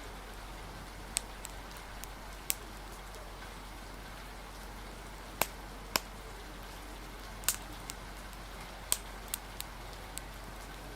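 Steady rain hiss with irregular sharp crackles and pops of a wood fire, about eight in all, a couple of them close together near the middle.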